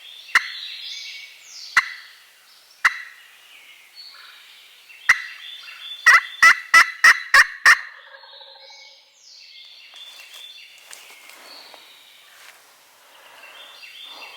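Eastern wild turkey gobbling from the roost close by: loud sharp calls a few times, then a rapid run of about seven near the middle, over a dawn chorus of songbirds.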